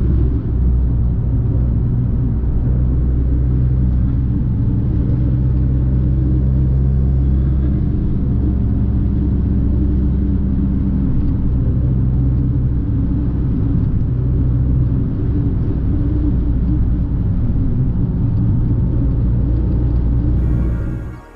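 Fiat 500 Abarth's turbocharged four-cylinder engine and exhaust running at a fairly steady pace, a deep rumble with road noise, fading out near the end.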